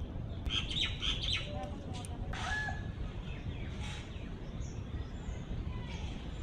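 Small birds chirping: a quick run of chirps about half a second in, then a few scattered calls, over a steady low background noise.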